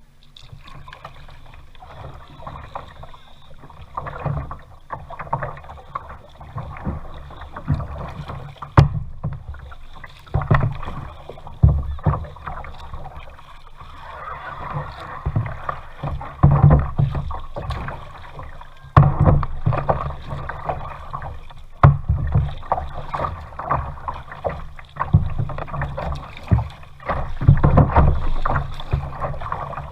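Kayak being paddled: water splashing and swishing in uneven surges as the paddle dips. A few sharp knocks come along the way.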